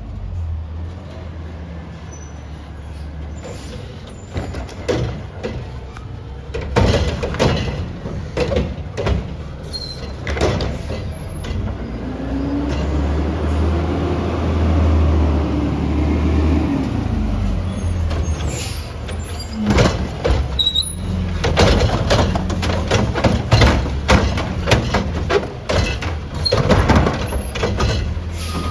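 Recycling garbage truck running, with a steady low engine drone. Clusters of sharp clanks and bangs come about seven to ten seconds in and again through the last third as recycling is tipped in. In between, the engine rises and falls in pitch.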